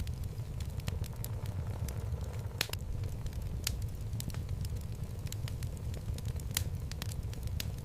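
Wood logs burning in a fireplace: a steady low rumble of flame with irregular sharp crackles and pops.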